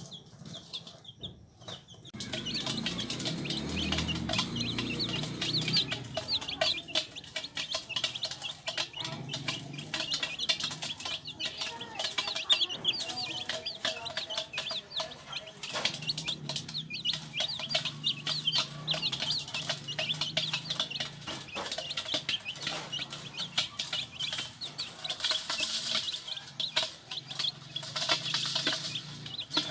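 A group of baby chicks peeping continuously, many short, high peeps overlapping, starting about two seconds in.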